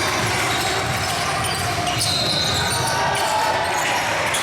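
Basketball game sounds in a gym: a ball bouncing on the court amid a steady mix of players' and spectators' voices.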